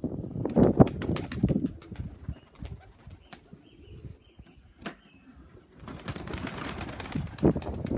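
Pigeons flapping their wings and clattering about, with a burst of wing noise near the end.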